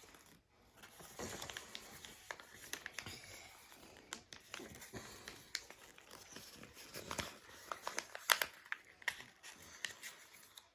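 Sheet of paper being folded and creased by hand: irregular rustling and crinkling with sharp crackles, busiest about two-thirds of the way through.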